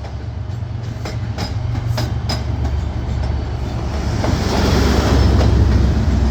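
MBTA commuter train with an HSP-46 diesel locomotive pulling out and passing: a steady low engine rumble, with wheels clacking over rail joints about twice a second. The rolling noise grows louder and peaks a little past halfway.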